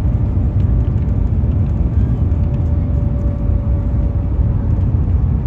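Shanghai maglev train running, heard from inside the passenger cabin: a loud, steady low rumble, with a faint steady whine coming in about two seconds in and fading a couple of seconds later.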